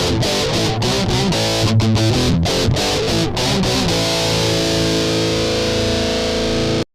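Electric guitar played through a Caline CP-15 Tantrum heavy metal distortion pedal: a chugging, heavily distorted riff with short choked stops, then a final chord held and left to ring out for about three seconds before it cuts off abruptly near the end.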